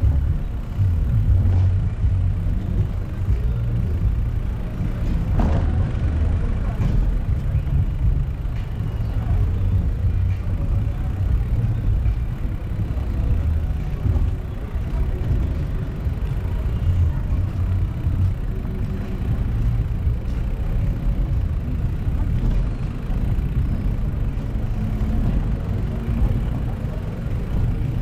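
City road traffic: a steady low rumble of passing vehicles and engines, heard while riding along the street, with a brief louder passing sound about five seconds in.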